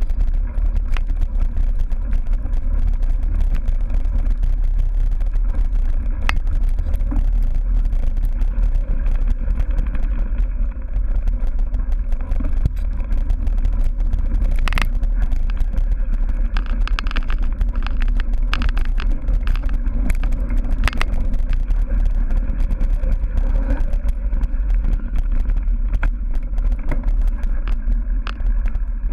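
Wind rumbling steadily on the camera's microphone while a cyclocross bike is ridden over rough dirt and grass, with frequent clattering knocks and rattles from the bike over the bumps.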